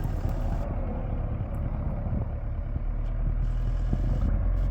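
Off-road 4x4's engine running at low speed as the vehicle crawls over a trail obstacle with its front locker engaged, getting a little louder about three seconds in.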